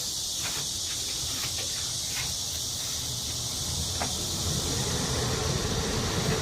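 Steady hiss with a few faint short taps and scrapes from wallpapering work, and a low rumble that builds near the end.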